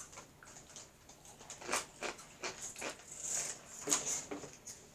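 Crunchy spicy corn snacks (Flaming Hot Cheetos and Hot Fries) being chewed with the mouth close to the microphone: scattered sharp crunches, with a snack bag being handled near the end.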